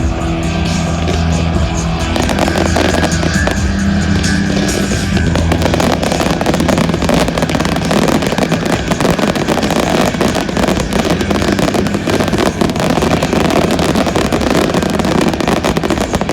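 Show music playing with fireworks going off; from about five seconds in, a dense, continuous crackling of many small bursts takes over, typical of a fireworks finale.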